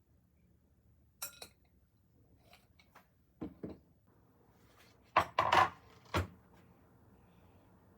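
Dishes and utensils being handled in a kitchen: a pair of bright clinks about a second in, two duller thuds a couple of seconds later, then a louder burst of clatters and knocks near the end.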